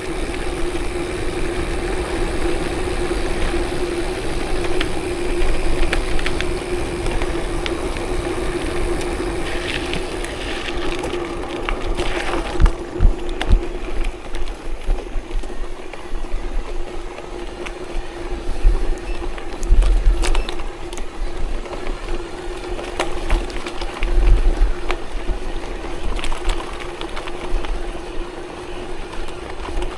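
Vehicle engine running steadily on a rough forest dirt road, with a constant hum and scattered knocks, rattles and low rumbling thumps from the bumpy ground.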